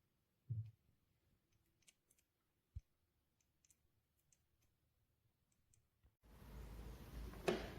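Near silence with a few faint clicks and ticks and a soft thump about half a second in. About six seconds in, a steady hiss comes up suddenly, with one sharper click near the end.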